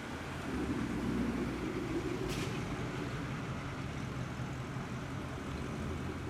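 A car engine running steadily with a low hum, swelling briefly about a second in, with a sharp click a little after two seconds.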